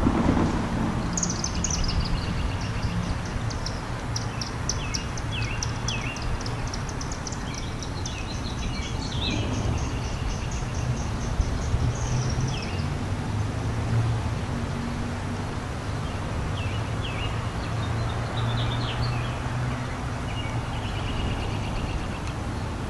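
Songbirds singing and chirping, including a rapid high repeated song that runs for about twelve seconds from about a second in, over a steady low engine hum.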